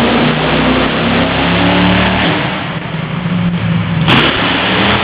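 Monster truck engine revving hard, its pitch shifting and dropping about two seconds in, with one sharp bang a little after four seconds in, as the truck comes down upside down from a failed backflip.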